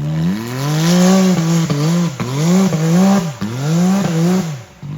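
Side-by-side UTV engine revving hard, rising and dropping about four times in quick succession, typical of working a vehicle up a rock-crawl obstacle, with a few sharp knocks in between.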